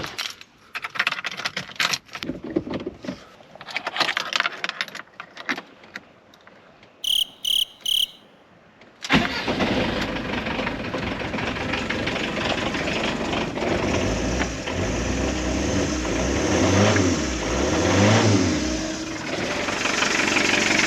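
Clicks and knocks of handling, then three short beeps, then the engine of an old Fiat Ducato-based motorhome starts about nine seconds in and runs, revved up and down a few times. There is no belt squeal: the alternator V-belt has just been re-tensioned.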